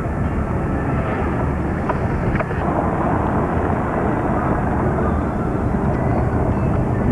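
Steady rumble of a moving pickup truck: engine and road noise.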